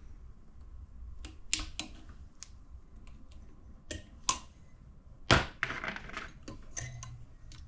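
A string of sharp, irregular metal clicks and taps from small engine parts being worked by hand, the loudest about five seconds in. This fits a wrist pin retaining clip being snapped into its groove in the piston.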